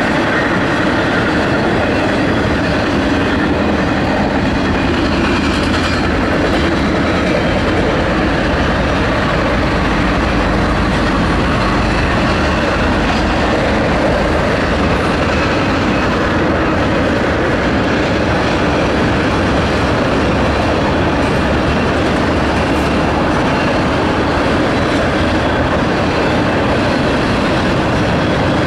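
Intermodal freight train of container cars passing at speed: a steady, loud noise of wheels on the rails that goes on without a break.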